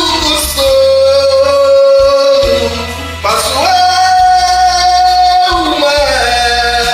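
Portuguese gospel song sung over a karaoke backing track, the voice holding one long note and then a second, higher long note that starts a little over three seconds in.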